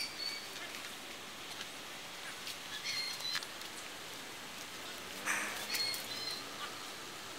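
Short, clipped bird chirps in three small groups over a faint outdoor hiss, with a brief rustle about five seconds in.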